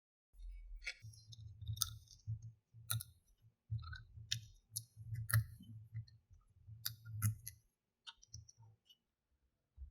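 Toys being handled: a string of irregular sharp clicks and clinks over a low handling rumble, thinning out after about eight seconds.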